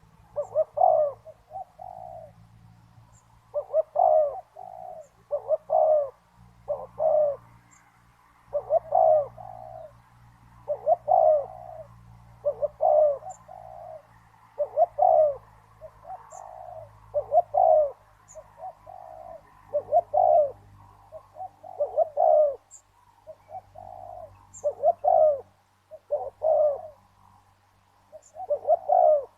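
Spotted dove cooing: short phrases of a few coos repeated about every two seconds.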